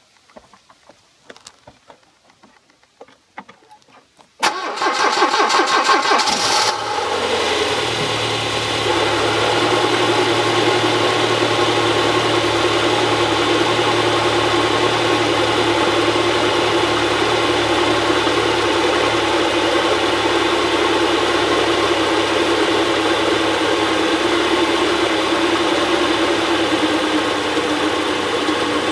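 Saab 900i eight-valve four-cylinder engine started from cold: a few faint clicks, then about four seconds in it cranks for roughly two seconds, catches and settles into a steady idle.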